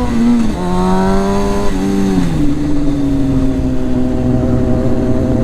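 Honda CBR600F4i inline-four engine pulling away under acceleration: its pitch climbs, drops twice at upshifts (about half a second and about two seconds in), then holds fairly steady at cruise.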